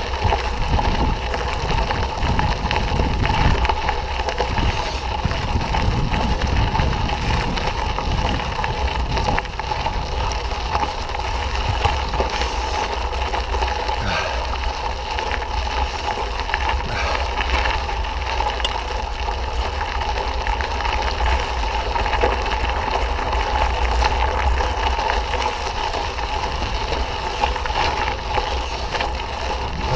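Mountain bike riding over a dirt trail: a steady rumble of wind on the microphone mixed with tyre and trail noise, small rattles, and a steady whine running through it.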